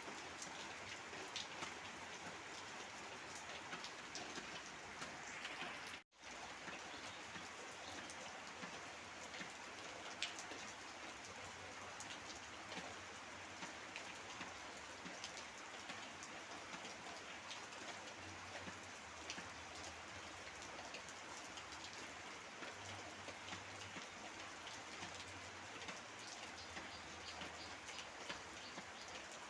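Steady heavy rain falling, a dense hiss with many small drip ticks; the sound drops out for an instant about six seconds in.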